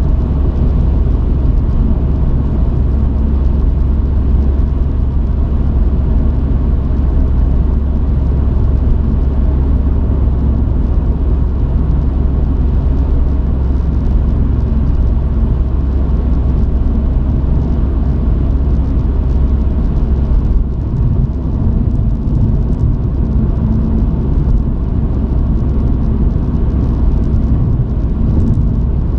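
Delivery truck on the move: a steady, loud, low rumble of engine and road noise, with a brief slight dip about twenty seconds in.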